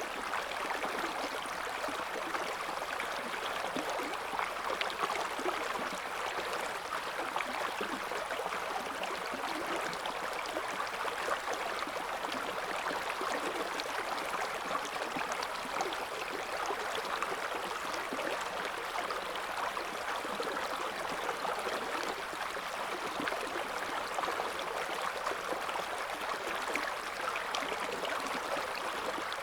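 River water flowing over stones: a steady, even rush with a fine bubbling and gurgling texture, unchanging throughout.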